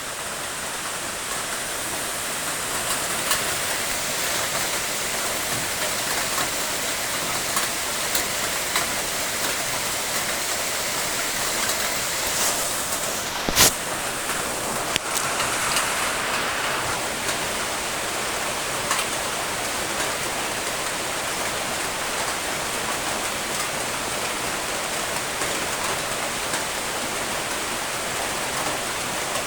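Steady rain: a constant hiss with scattered faint drop ticks, swelling over the first few seconds. A single sharp click about halfway through.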